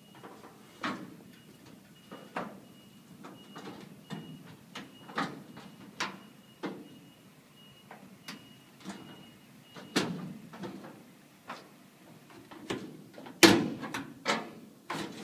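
Metal filing-cabinet drawer and its slide tracks knocking and clicking as the drawer is handled and set onto the tracks, a string of separate sharp knocks with the loudest about thirteen seconds in.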